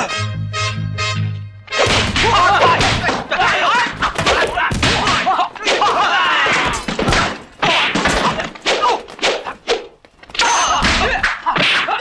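Kung fu film fight soundtrack: music with a pulsing beat, then from about two seconds in a rapid flurry of whacks and thuds from staff and fist blows, mixed with fighters' shouts and music, pausing briefly near the end before more hits.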